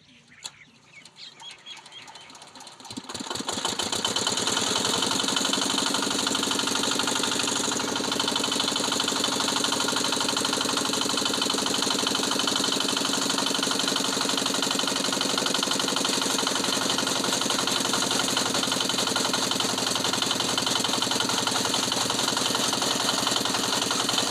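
Single-cylinder Petter-type stationary diesel engine being started: a few quiet irregular turns, then it catches about three seconds in and settles into a loud, steady, fast-beating run.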